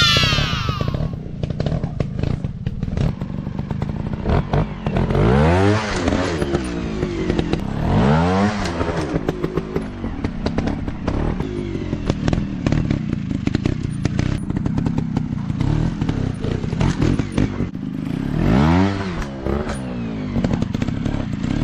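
Off-road dirt bike engine running under load, revving up and dropping back several times, with knocks and rattles throughout.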